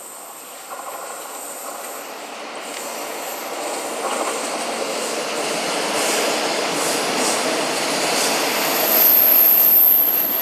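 A passenger train approaching on the track, its rolling noise growing steadily louder, with a high-pitched wheel squeal coming in near the end.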